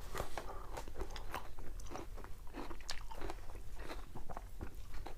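A person biting and chewing crunchy food close to the microphone: a run of irregular short crunches.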